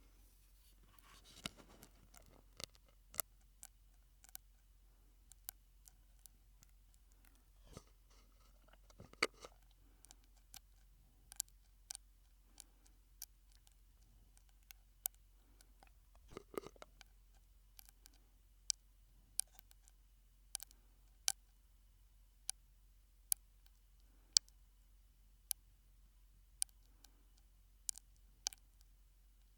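Mouth sounds made through a straw: sharp clicks and pops, irregular at about one a second, with a few longer, softer mouth noises among them.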